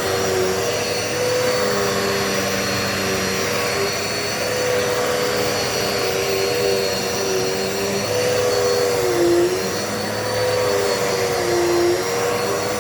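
Dirt Devil Multi-Surface corded vacuum cleaner running steadily with a motor whine. The whine's pitch dips briefly twice, about two-thirds of the way in and near the end.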